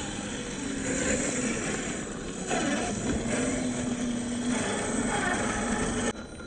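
Scale RC crawler truck's electric motor and geared drivetrain whining as it drives over the trail, with a steady tone held for about two seconds in the middle; the sound cuts off abruptly near the end.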